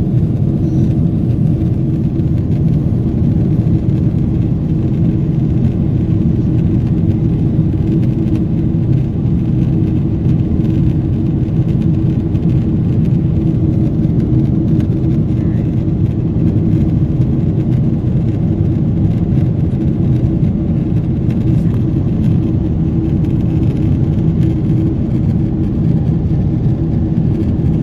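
Steady low drone inside the cabin of a Boeing 777 in flight: the GE90 engines and airflow, with a constant hum.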